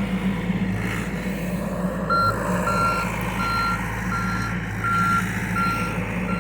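John Deere excavator's diesel engine running steadily, and about two seconds in its travel alarm starts beeping, short even beeps a little more than one a second.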